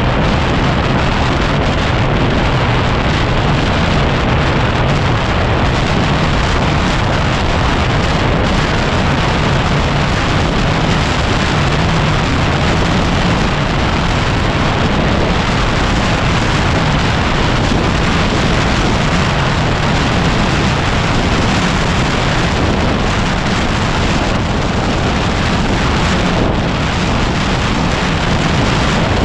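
Heavy wind noise rushing over the microphone, mixed with the steady running of a 2010 Yamaha WR250R's single-cylinder engine under way.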